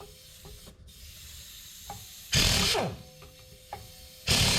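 Power impact wrench on the tie-rod nuts of a hydraulic cylinder, run in short bursts: a brief burst a little past the middle and another starting near the end. Each burst ends in a falling whine as the tool spins down, with small clicks of handling in between.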